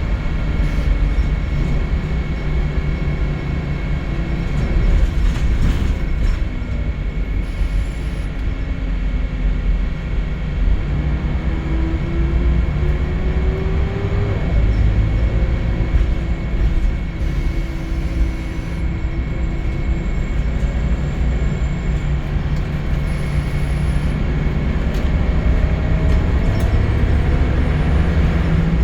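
Scania L94UB Wright Solar single-deck bus heard from on board: a steady engine and road rumble with a thin steady whine. Twice the drivetrain whine rises in pitch as the bus pulls away and gathers speed, about halfway through and again near the end.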